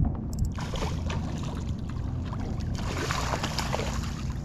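Water splashing and dripping as a snook is landed beside a kayak, with a few short clicks near the start and a steady low rumble underneath.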